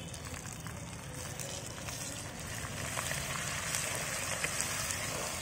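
Spinach leaves sizzling in hot oil in a pan while being stirred with a spatula, a steady hiss with small crackles that grows louder about two seconds in.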